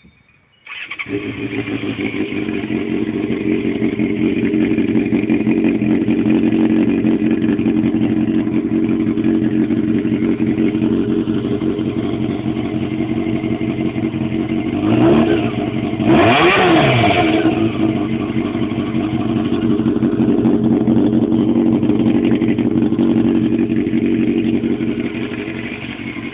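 A 1999 Honda CBR600 F4's inline-four engine starting about a second in and idling with a throaty sound through an HRC muffler with its resonator, baffle and packing removed. About halfway through, the throttle is blipped twice, the second rev higher and louder, before it settles back to idle.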